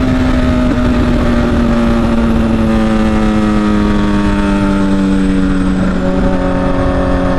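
Kawasaki ZX-10R sport bike running very loud with its exhaust slip-on removed, held at steady high revs while riding, the engine note slowly sinking as the revs ease off. Wind buffets the microphone underneath.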